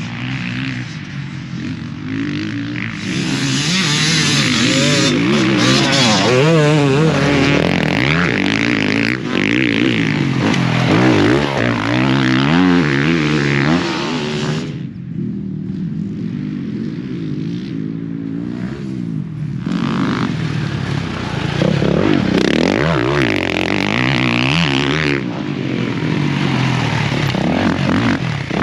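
Dirt bike engine revving hard and falling off again and again, its pitch rising and dropping as the bike is ridden around a motocross track.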